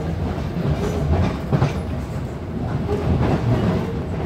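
Class 455 electric multiple unit heard from inside the carriage while running over pointwork: a steady low rumble with irregular clacks as the wheels cross points and rail joints.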